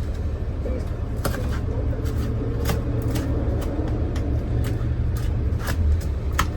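Small fragments of broken laminated window glass clicking and ticking as they are scraped and cleared out of a truck door's window track, a scatter of sharp clicks over a steady low rumble.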